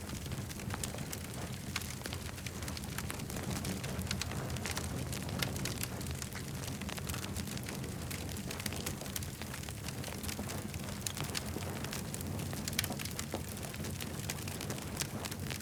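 Campfire crackling: frequent sharp pops and snaps over a steady low rush of burning.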